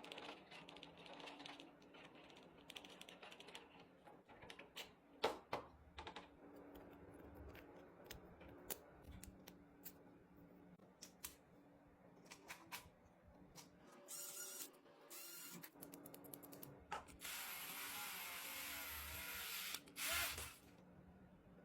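Metal hand tools clicking and knocking against engine parts during piston fitting, in scattered sharp strokes. A short hiss comes about two-thirds of the way in, and a louder hiss lasting about three seconds comes near the end.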